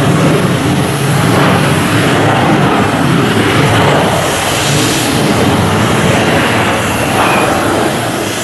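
Loud, steady jet noise from a Boeing 777-300's twin engines as it moves on the runway, easing slightly near the end.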